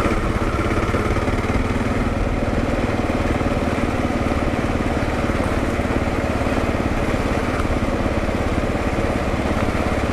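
Kawasaki KLR650's single-cylinder four-stroke engine running steadily while the motorcycle is ridden, its firing pulses even with no rise or fall in revs.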